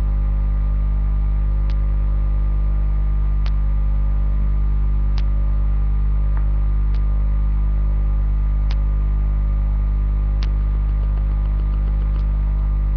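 Steady electrical mains hum at 50 Hz with many overtones, the loudest thing throughout, with a short click repeating evenly about every second and three quarters.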